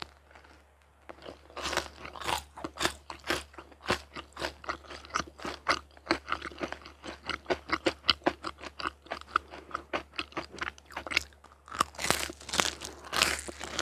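Close-up crunching of a person biting and chewing something crisp, the sharp crunches coming thick and fast from about a second in.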